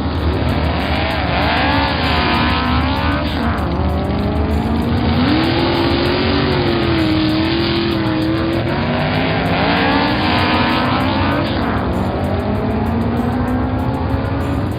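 Cartoon sound effect of a vehicle engine revving, its pitch rising and falling twice over a steady low hum.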